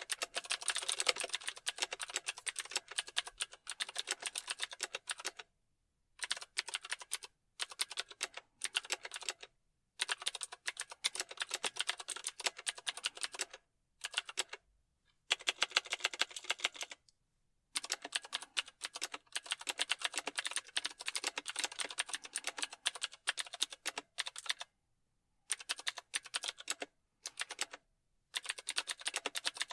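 Rapid typing on a computer keyboard, a dense run of key clicks broken by several short pauses.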